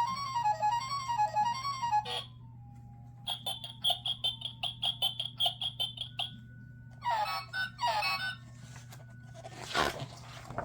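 Electronic sound chip of a push-button children's sound book playing a series of short, tinny effects: a warbling tune for about two seconds, then a run of fast, even beeps, two falling chirps, and a brief noisy burst near the end.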